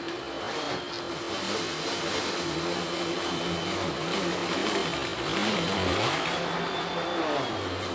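Russell Hobbs Athena 2 Pet upright vacuum cleaner running on a rug: a steady motor hum with a high whine, its lower pitch wavering up and down.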